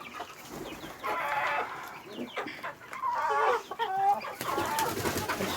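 Domestic poultry calling: several separate clucking calls, some with a wavering pitch.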